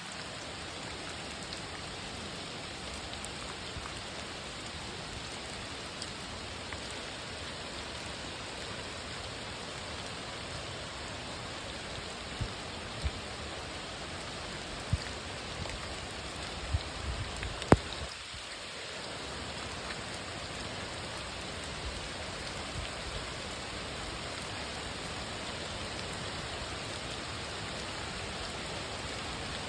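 Steady rain falling in a forest, an even hiss throughout, with a few sharp knocks and low thumps around the middle.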